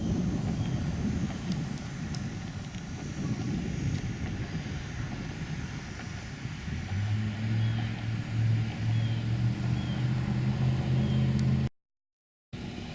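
2013 Dodge Avenger R/T driving, with a rough low road and wind rumble; about seven seconds in, a steady low engine drone sets in and holds. Near the end the sound cuts out completely for under a second.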